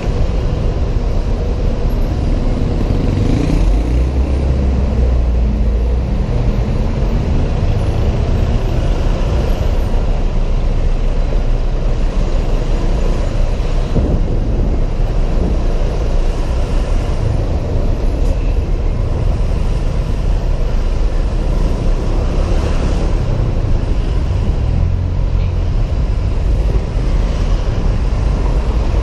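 Wind rushing over a helmet-mounted action camera's microphone while riding a Honda PCX 125 scooter in traffic, with the engine and surrounding vehicles underneath. A rising engine note comes a few seconds in.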